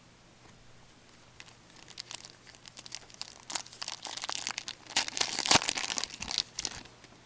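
A Panini Certified hockey card pack wrapper crinkling and being torn open. A run of crackles starts about a second and a half in and is loudest about five seconds in.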